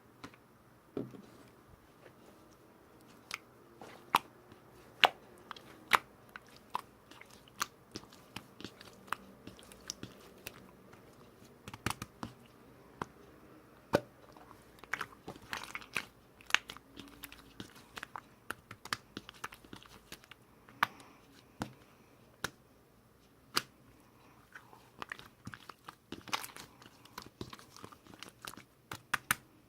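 Irregular sharp clicks and crunches, a few a second at times, with short quiet gaps between them.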